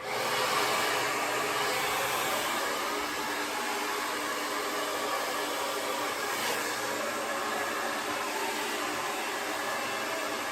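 Conair Testarossa 1875-watt AC-motor hair dryer blowing, starting up right at the beginning and then running steadily with an even rushing hiss and a faint motor hum.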